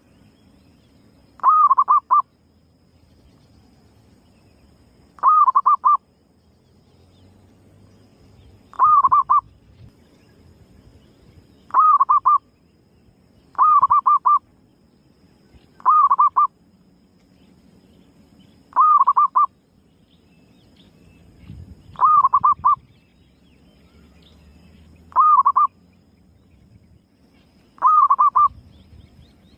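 Female zebra dove (perkutut) cooing: ten short calls, each a quick run of three or four notes, repeated about every three seconds.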